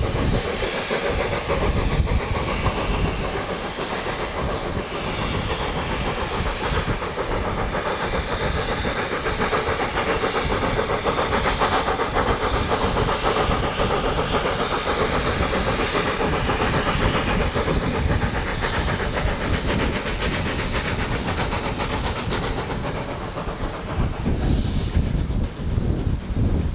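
Steam locomotive and train running, with a steady hiss of steam and rail noise. Wind buffets the microphone near the end.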